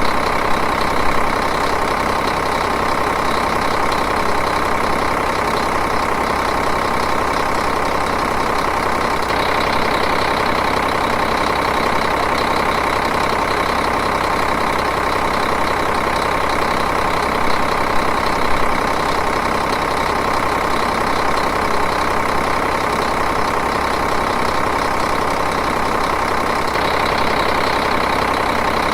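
Diesel engine idling steadily, with an even, unchanging running sound.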